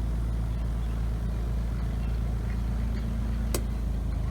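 Portable camp washer's spin cycle running fast: a steady low motor hum, with one sharp click about three and a half seconds in.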